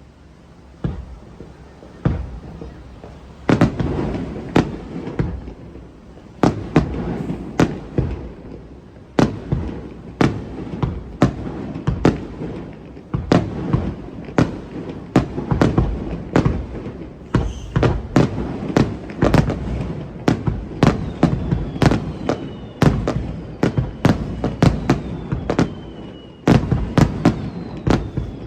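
Fireworks display: aerial shells bursting with sharp bangs and rumbling echoes, a few spaced bangs at first, then a quick run of several a second. Thin whistles sound among the bursts near the end.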